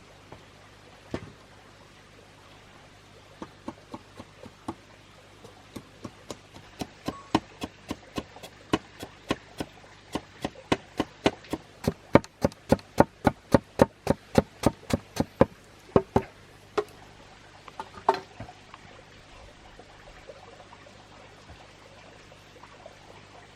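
A long run of sharp chopping strikes. It starts sparse, then settles into about two to three strikes a second and grows louder, and stops near the end with a few last isolated blows.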